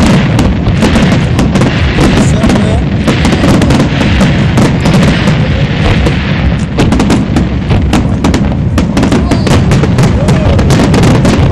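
Aerial firework shells bursting in a dense, unbroken barrage of booms and crackles, several bangs a second.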